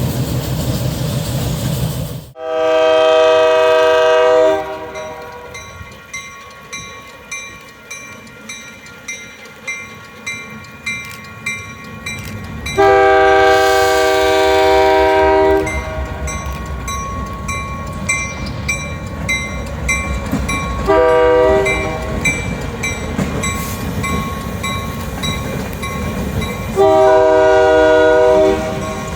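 Freight locomotive air horn sounding the grade-crossing pattern: long, long, short, long. Between the blasts, train wheels click steadily over the rail joints over a running rumble.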